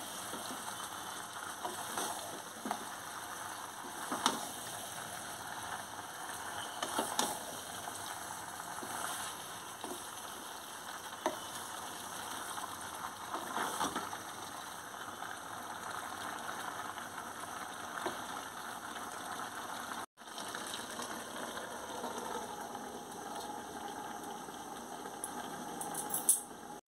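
Chicken, onion and capsicum sizzling in an iron kadai while a wooden spatula stirs and scrapes against the pan, knocking every second or two. Near the end a steel lid clatters onto the pan.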